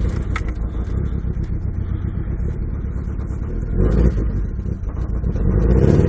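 Mitsubishi Eclipse RS's 420A 2.0-litre four-cylinder engine starting suddenly and running, with the revs swelling about four seconds in and again near the end.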